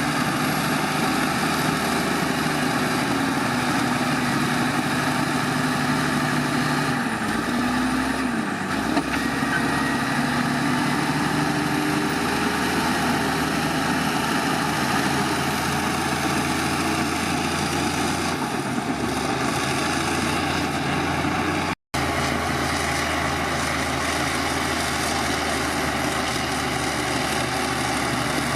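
Heavy diesel engine of earthmoving machinery running steadily, its pitch dipping and rising briefly about eight seconds in. The sound cuts out for an instant near the end.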